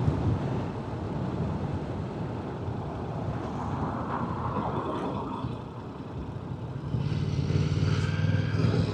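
Motorcycle engine running at the roadside with traffic going by. About two seconds before the end a louder engine hum with a steady pitch comes in.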